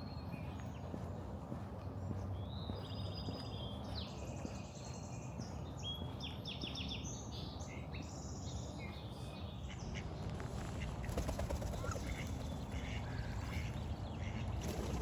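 Wild birds calling: a run of quick, chattering high notes in the first half, fainter calls later, over a steady low outdoor background rumble.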